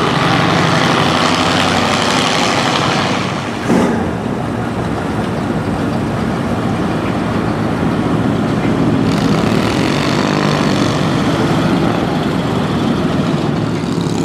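Car engine running with a steady low rumble, with a short sharp knock a little under four seconds in.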